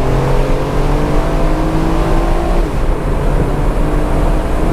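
Aston Martin Vantage Roadster's twin-turbo V8 accelerating hard from inside the open-top cabin, its pitch climbing steadily, dropping at an upshift a little under three seconds in, then climbing again.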